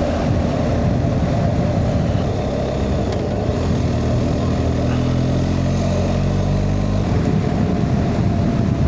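BMW R 1250 GS boxer-twin engine under way, with steady wind rush. The engine note climbs steadily for several seconds, then breaks off about seven seconds in.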